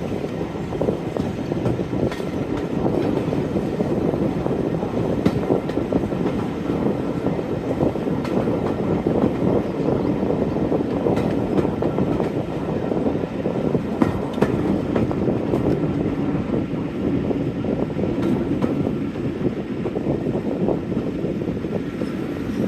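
Train hauled by Class 45 diesel locomotive 45108 running along the line: a steady, continuous rumble of wheels on rails, with faint scattered clicks.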